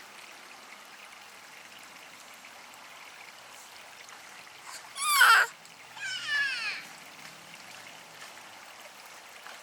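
Steady trickle of running water from a stream. About five seconds in comes a loud, high-pitched cry with sweeping pitch, followed about a second later by a quicker run of falling high-pitched calls.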